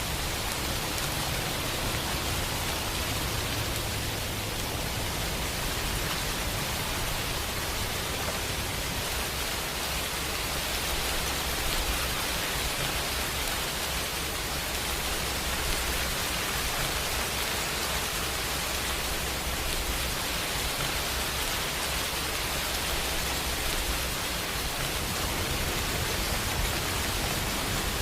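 Steady rain, an even hiss that does not change, with a low rumble underneath.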